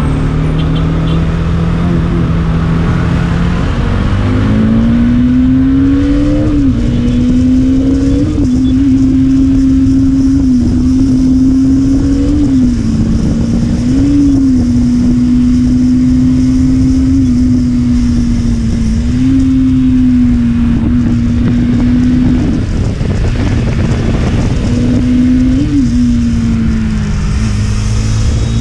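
Motorcycle engine running on the road under heavy wind noise on the microphone. The engine pitch climbs over the first few seconds as the bike accelerates, then holds at a steady cruise with a few brief rises and dips from throttle changes.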